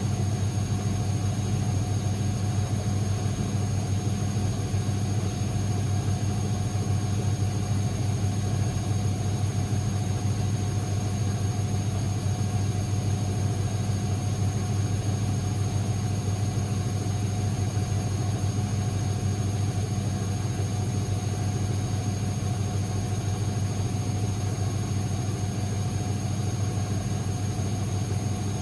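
Constructa Energy 1000s washing machine running with a steady, unchanging motor hum and a constant whine over it.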